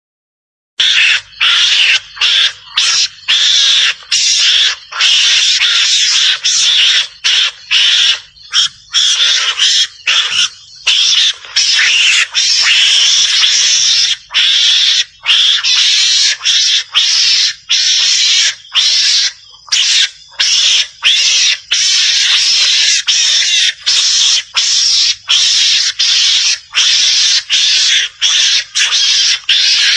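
Mongoose (garangan) calls played as a hunting lure: a loud, harsh chattering that starts about a second in and runs in long bursts with many brief breaks.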